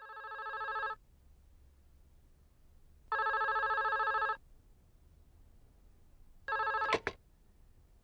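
Telephone ringing three times, each ring about a second long with a fast warbling trill. The third ring is cut short by two sharp clicks.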